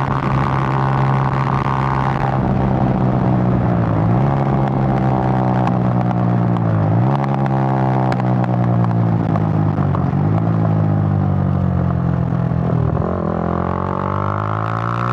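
Suzuki GN125's single-cylinder four-stroke engine running under way. Its pitch eases down and then jumps up sharply three times, about 4, 7 and 13 seconds in, as with gear changes.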